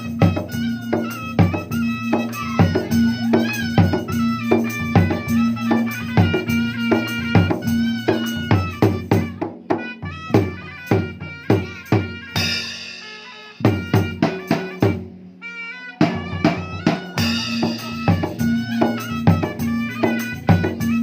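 Dangdut music with a gendang drum rhythm under a melody line. About two-thirds of the way through the beat breaks off for a few seconds, then the full rhythm comes back.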